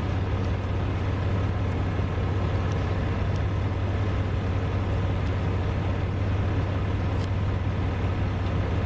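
A steady, low engine rumble with a constant hum, unchanging throughout.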